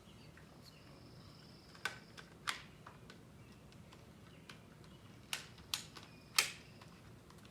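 A handful of scattered, sharp plastic clicks and clacks from a Nerf Rival Knockout blaster being handled and primed between shots: two about two seconds in, and three more between five and six and a half seconds in.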